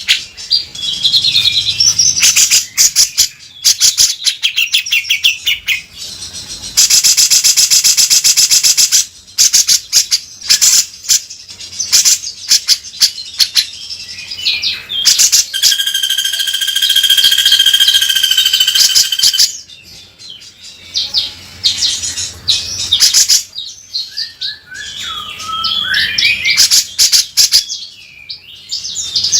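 Cucak jenggot (grey-cheeked bulbul) calling continuously in harsh, rough rattling phrases ('beset kasar') mixed with quick chirps. There is a fast buzzing rattle about a quarter of the way through, and a long held note around the middle.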